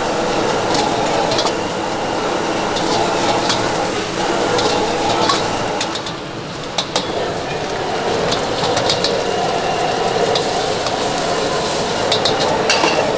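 Food frying in a pan, with a metal spatula stirring and scraping it and many sharp clinks of metal on metal.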